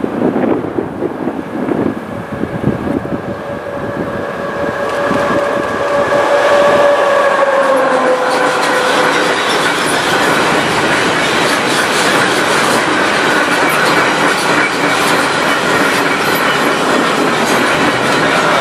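A Tågab Rc2 electric locomotive and a long train of enclosed car-carrier wagons approach and pass close by. A humming tone from the locomotive drops in pitch about eight seconds in as it goes by, and then the steady rumble and clickety-clack of the wagons' wheels on the rail joints carries on.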